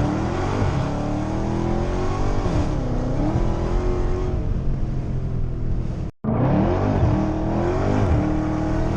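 Dodge Charger Hellcat's supercharged V8 under hard acceleration, its pitch climbing and then dropping back at each upshift. The sound cuts out for an instant about six seconds in.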